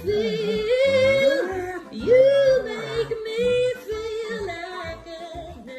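A dog howling in long, wavering, sung-sounding phrases, its pitch sliding up and down between held notes.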